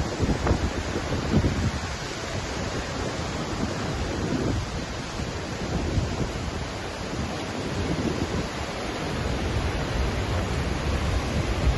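Waterfall: a steady rush of falling water, with irregular gusts of wind buffeting the microphone.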